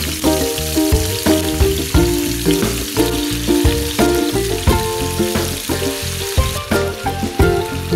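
Marinated chicken pieces sizzling as they fry in hot oil in a pan, under background music with a steady beat.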